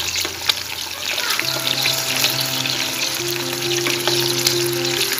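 Minced-meat kebab patties sizzling and crackling in shallow oil in a non-stick frying pan, with a spatula clicking against the pan as they are turned. Steady background music comes in about a second and a half in.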